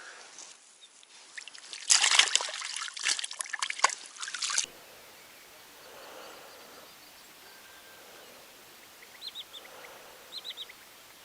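A loud spell of crackling, rustling handling noise full of sharp clicks, which cuts off abruptly. After it comes a quiet outdoor background in which a bird gives a few short runs of three or four quick high chirps near the end.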